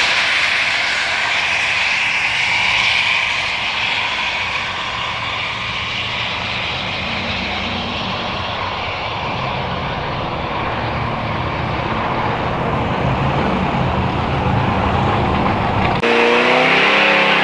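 A car's engine at full throttle down a drag strip, its high-pitched note dropping and fading over the first few seconds as it pulls away. Near the end, after a sudden cut, an engine revs up with rising pitch.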